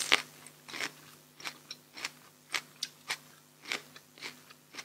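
Close-miked mouth chewing of raw shrimp salad with fresh herbs and vegetables: crisp crunches about twice a second, the loudest at the very start.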